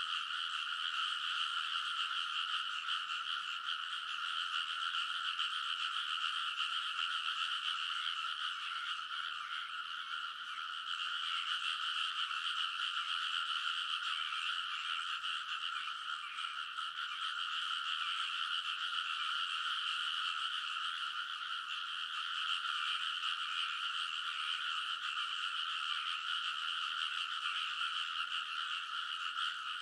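Dense chorus of many frogs calling together in rice paddies, a steady, unbroken mass of croaking.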